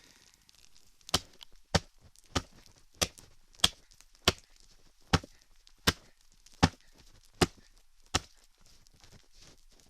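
Axe chopping into a dry dead tree: eleven sharp, evenly paced strikes, about one every two-thirds of a second, stopping a little after eight seconds in.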